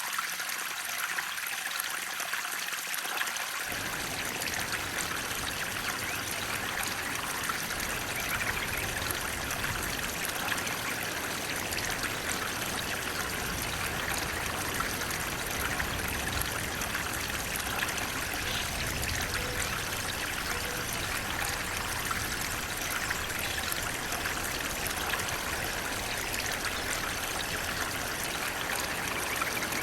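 Steady rush of flowing water, as of a stream or small waterfall; a deeper low rush joins in about three and a half seconds in.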